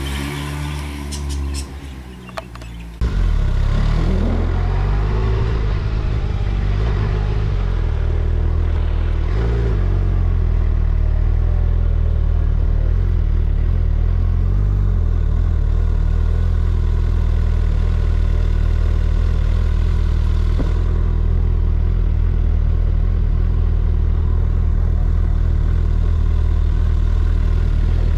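A large, deep-sounding engine, the 5000 cc Rolls-Royce Merlin–based V-twin motorcycle, comes in suddenly about three seconds in, then runs steadily and loud.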